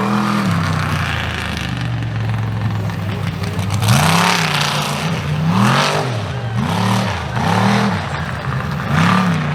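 Mega mud truck's engine running hard, then revved up and down several times in quick succession in the second half.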